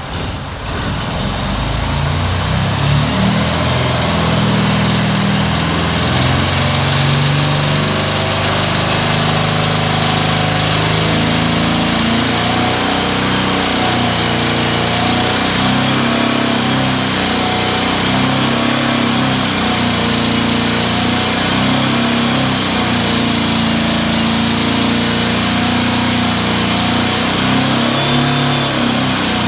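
1968 Porsche 912's air-cooled flat-four engine running on an engine dyno, its note steady with the pitch wavering a little.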